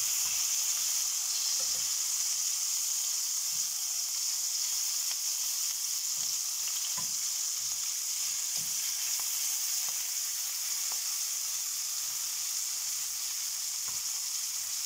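Green peppers sizzling steadily in hot oil in a frying pan, with a few soft knocks of a wooden spatula against the pan as the browned peppers are turned.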